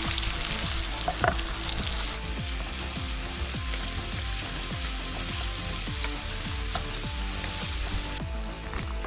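Diced salted pork fat, mushrooms, onion and garlic sizzling steadily in a frying pan.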